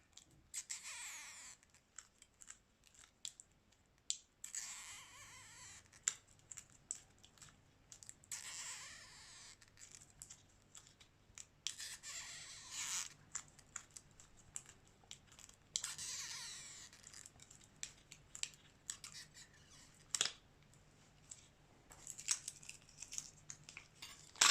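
Repeated scraping strokes, each about a second long, and small sharp clicks from hand repair work on a Xiaomi Redmi 9A smartphone during a screen replacement.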